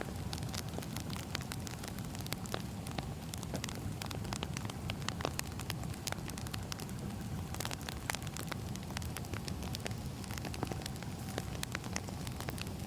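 Wood fire crackling: many irregular small pops and snaps over a steady low rumble of burning logs.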